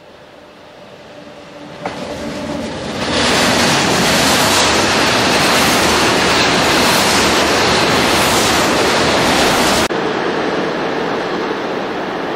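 A freight train of tank wagons hauled by an SNCF BB 26000 electric locomotive approaches and passes close by. The rail noise builds over the first few seconds, with one sharp click, then the wagons run past loudly and steadily. Near the end it drops suddenly to a quieter, steady rumble.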